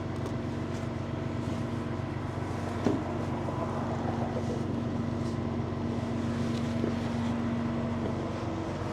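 Tow truck engine running steadily, a constant low hum, with a single knock about three seconds in.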